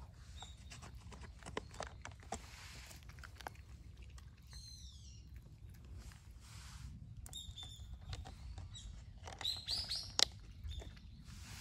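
Small birds chirping: short high calls, a quick falling run of notes about four and a half seconds in and a few rising calls near ten seconds. Scattered soft clicks run under them, with one sharper click just after ten seconds.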